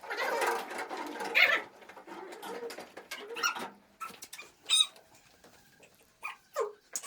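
Animal calls: a series of short cries, the loudest in the first two seconds, then scattered ones.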